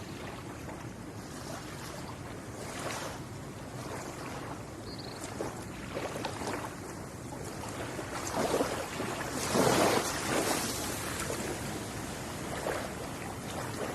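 Small ocean waves breaking and washing up the shore, a steady surf hiss with several soft swells, the biggest about two-thirds of the way through.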